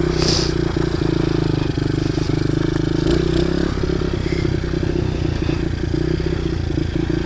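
Small single-cylinder pit bike engine running steadily under way, its rapid firing pulses even throughout and the note easing slightly after about three and a half seconds. The engine is one the rider says revs up by itself and takes a while to idle down.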